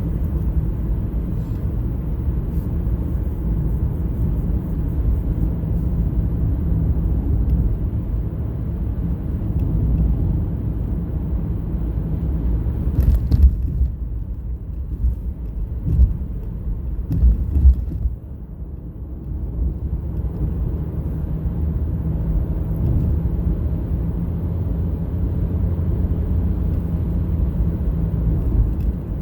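A truck driving, heard as a steady low engine and road rumble. A few sharp knocks come a little past halfway, and the rumble dips briefly soon after.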